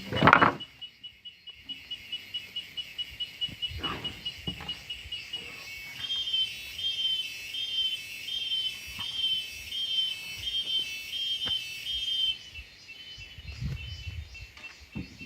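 A high, thin steady tone with a repeating chirp about twice a second in its middle stretch, typical of birds or insects, with a few scattered knocks.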